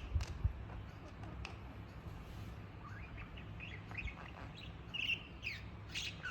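Pet budgerigar chattering: a run of short chirps and squeaks, with a couple of sharp knocks near the start.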